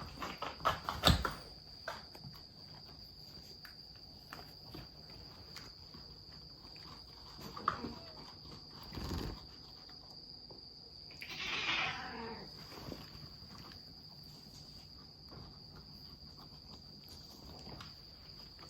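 A few knocks at the start, then a short, rough animal vocal sound about midway, over a steady high-pitched whine.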